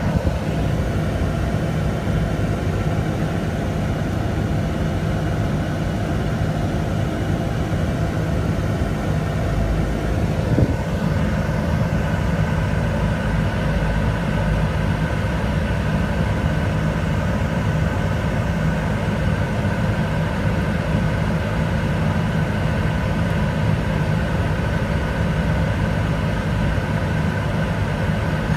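Steady vehicle engine hum with low rumble, unchanging throughout, with one short knock about ten seconds in.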